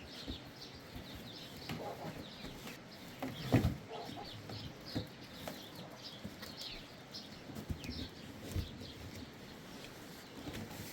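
Birds chirping in a steady stream of short, high chirps, with a single thud about three and a half seconds in.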